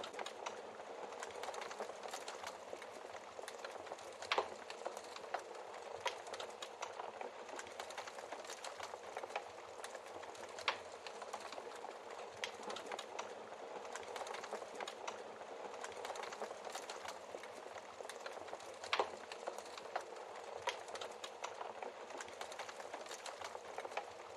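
Wood fire crackling in a fireplace: a steady hiss of small crackles, with a few louder pops from the burning logs.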